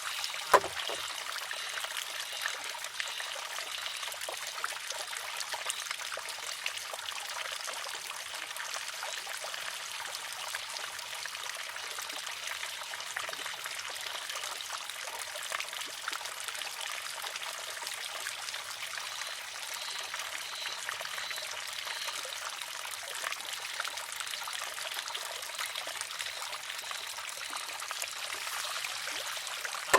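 Wooden shishi-odoshi (sozu) arm tipping and striking its stone with one sharp, hollow knock about half a second in, over steadily trickling and splashing water from the spout. A second knock comes right at the end, as the refilled arm tips again.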